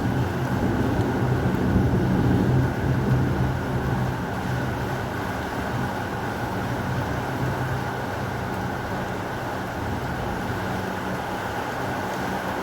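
Heavy rain falling steadily, with a low rolling rumble of thunder that is loudest in the first few seconds and then dies away into the rain.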